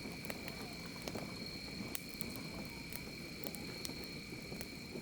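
Insects singing steadily at one high pitch, with scattered sharp clicks over a low background hiss.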